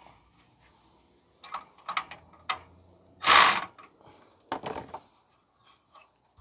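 Metal clicks and clatter of tools working a clamp onto an exhaust heat shield, with one louder half-second burst of noise about midway and a few more clicks after it.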